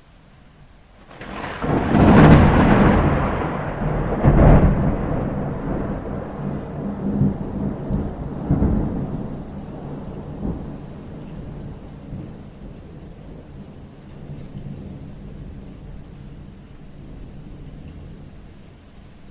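A thunderclap over rain: a loud crash about a second in, a second peak a couple of seconds later, then a long rumble that slowly dies away.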